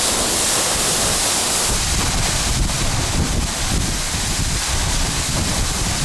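Waterfall rushing in a steady, loud hiss, with wind gusting and buffeting the microphone.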